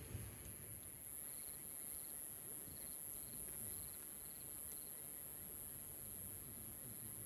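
Insects chirping in short pulsed trills, with a steady high-pitched shrill and a constant low rumble underneath.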